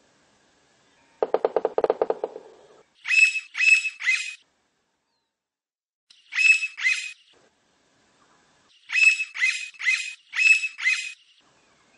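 Blond-crested woodpecker calling: repeated groups of two to four short, harsh, high notes, coming in several bouts. About a second in, a lower, rapidly pulsed call lasts about a second and a half.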